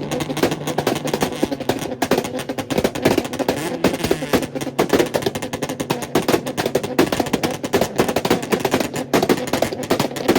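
Car engine held on a two-step launch limiter, its exhaust firing a fast, ragged string of pops and bangs over the engine's steady note.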